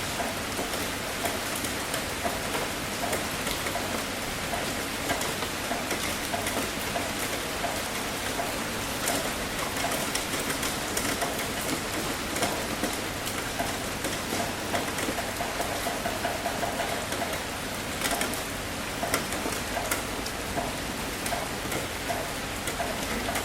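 Heavy rain falling steadily on a tin roof, a constant hiss with many individual drops ticking sharply against the metal.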